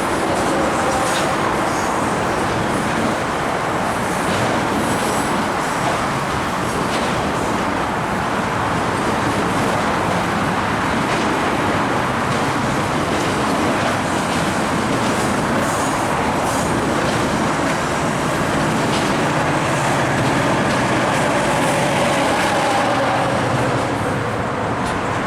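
A train rolling past close by: a steady, loud rumble of wheels on rails, with scattered clicks.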